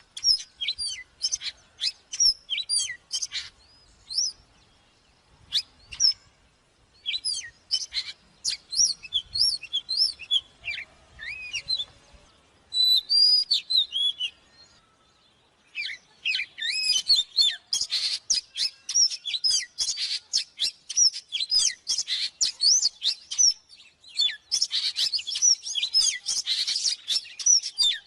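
Oriental magpie-robin singing: fast, varied phrases of sweeping whistled notes, with a short pause about halfway through and a denser run of notes after it.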